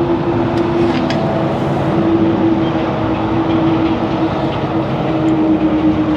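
Steady machine noise: an even rushing sound with a constant hum.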